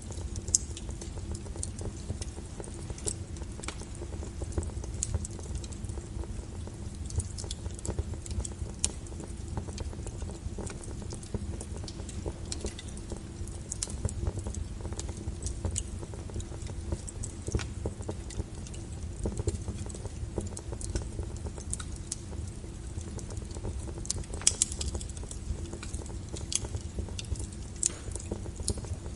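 Wood logs burning in a fireplace: a steady low rumble of flame with irregular sharp crackles and pops, a few louder pops about half a second in and near the end.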